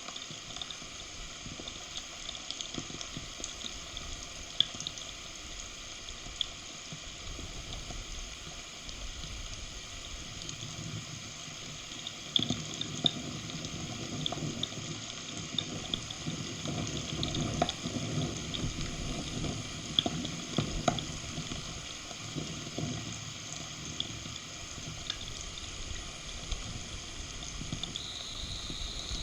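Heavy rain falling steadily, a hiss with many scattered sharp drop clicks, growing louder and fuller from about twelve seconds in.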